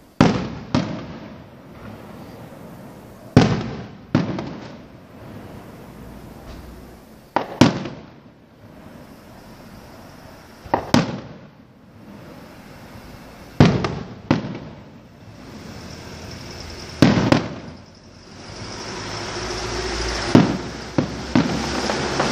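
Aerial firework shells bursting overhead: a sharp bang every three to four seconds, often two close together, each trailing off in a rumbling echo. Over the last few seconds a rushing noise swells up underneath the bangs.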